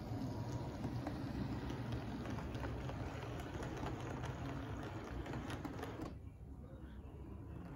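HO scale model rail car running along the track, its small electric motor whirring and its wheels clicking over rail joints and points. The sound drops off sharply about six seconds in.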